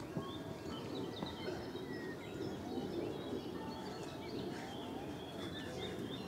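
Wild birds chirping and singing, many short whistled notes and chirps overlapping, over a steady low background rumble.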